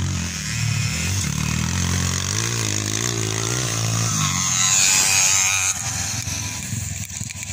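Motocross motorcycle engines revving up and down, the pitch rising and falling, with a louder, hissier rush about five seconds in.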